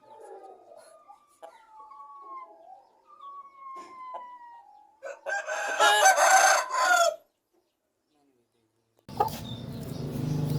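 Aseel rooster of the Lassani line giving soft gliding calls, then one loud crow about five seconds in. The sound drops to dead silence, and steady background noise comes in near the end.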